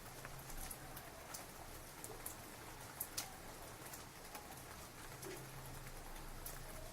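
Steady rain falling, with individual drops ticking sharply on a hard surface close by, a couple of the loudest about three seconds in.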